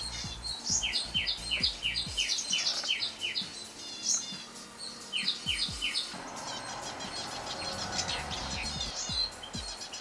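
Ashy prinia calling: two runs of sharp, evenly repeated falling notes, about three a second. After them comes a denser high twittering of small garden birds.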